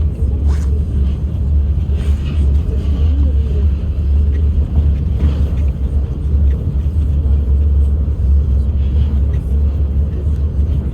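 Moscow Monorail train running between stations, heard from inside the car: a steady low rumble with a few faint knocks.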